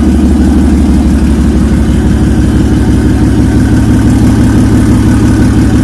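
Nissan L28ET turbocharged 2.8-litre straight-six running at a steady idle with an even, fast exhaust beat, on its first start-up.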